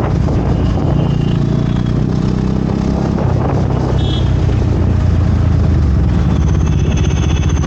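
Vehicle engine running steadily on a road ride, its note shifting about three seconds in, with short high-pitched tones about four seconds in and again near the end.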